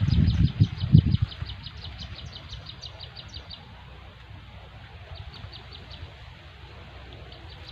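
A rapid series of short high chirps, about seven a second, from a calling animal, stopping about three and a half seconds in and starting again briefly later. Low thumps and rumble in the first second are the loudest sound.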